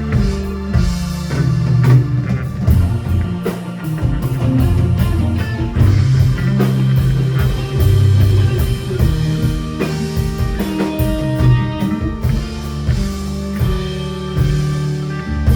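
Live prog rock band playing an instrumental passage: electric guitar and bass over a busy drum kit, with many drum hits.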